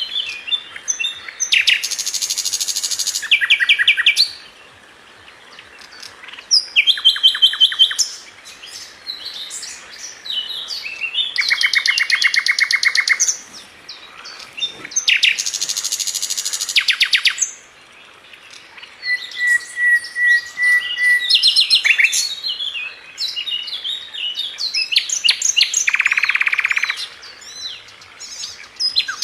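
Sikatan London songbird singing a varied, loud song. It mixes fast rattling trills, short clear whistles, a held whistle and a buzzy phrase, with brief pauses between phrases.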